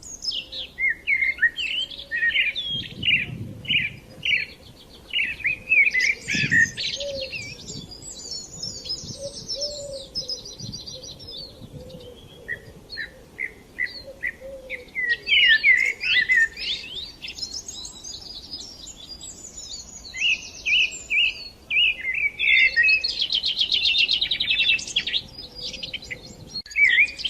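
Small songbirds singing: many short chirps with fast rattling trills that come in several stretches.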